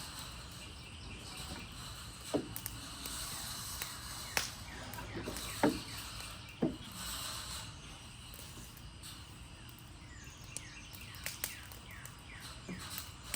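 Fire burning a wooden Adirondack chair, crackling: a steady hiss with scattered sharp pops, the loudest clustered a few seconds in and smaller ones near the end.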